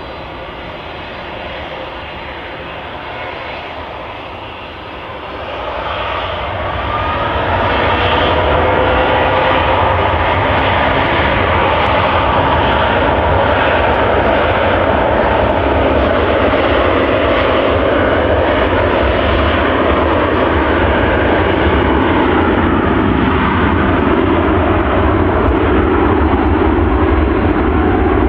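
Boeing 757 jet engines, running quieter for the first few seconds, then rising over about three seconds with a climbing whine to a loud, steady rumble.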